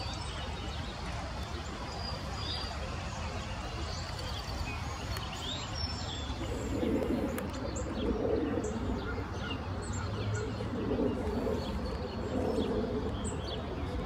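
Backyard birds calling: faint, short, high chirps over a steady outdoor hiss. From about halfway through, a louder, low, repeated call comes in every second or so.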